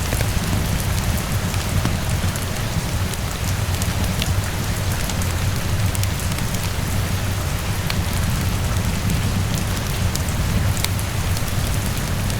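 Steady rainfall with a low rumbling undertone, mixed with scattered sharp crackles from a fireplace.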